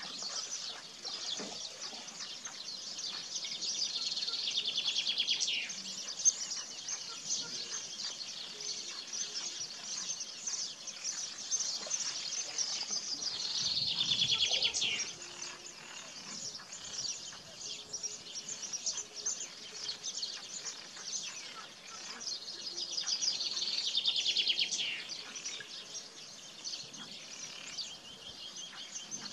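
Songbirds singing, a steady background of high chirps. Three times, about ten seconds apart, a louder rapid trilled phrase of about two seconds stands out, dropping in pitch at its end.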